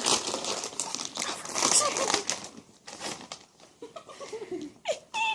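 Crinkling of snack packaging and crunching, loudest in the first two seconds or so, then quieter, with a few brief murmurs near the end.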